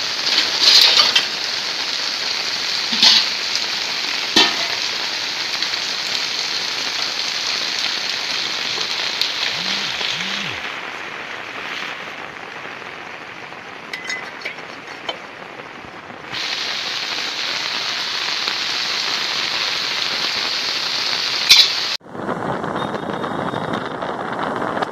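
Heavy monsoon rain hissing steadily over floodwater, with a few sharp taps of drops landing close by; the rain eases somewhat for a few seconds midway. About 22 s in, it cuts to a rushing roar of wind on the microphone beside a swollen river.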